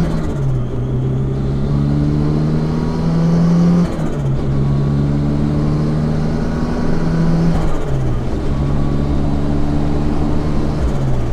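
Supercharged Honda S2000 four-cylinder with a Kraftwerks supercharger kit and Mugen exhaust under normal acceleration, heard from the open cockpit. The engine note climbs steadily through a gear, then drops sharply at an upshift; this happens three times. The supercharger's blow-off valve vents at the shifts.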